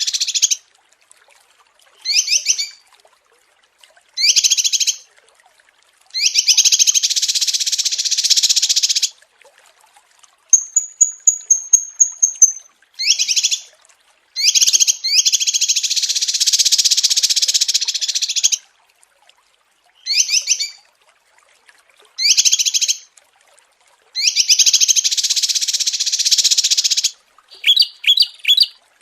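Small songbird singing in repeated bursts of fast, high chattering, some short and some lasting two to three seconds, with silent gaps between them and a single high whistle about eleven seconds in.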